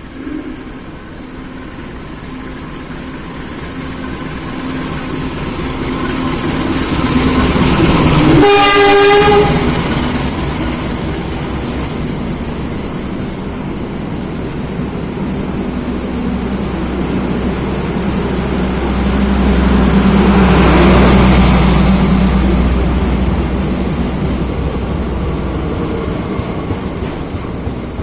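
Diesel-hauled passenger train running through a station: the train's rumble builds, and the locomotive's horn sounds once, a blast of about a second, some eight seconds in. Train noise swells again around twenty seconds in as the train passes.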